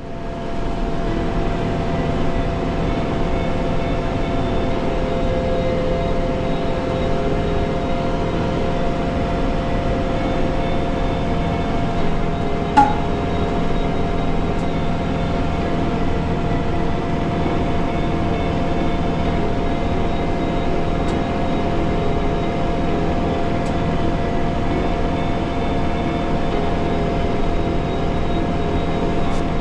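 Diesel tractor engine running steadily, with a constant whine over the engine note and one brief click about halfway through.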